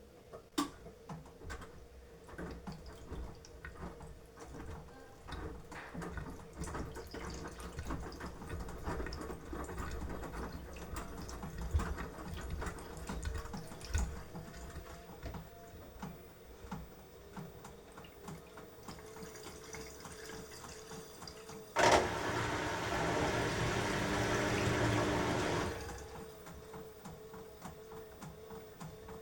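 Beko washing machine mid-wash: the drum turns with water sloshing and soft knocks, then, about three quarters of the way through, water rushes in for about four seconds, starting suddenly and cutting off abruptly.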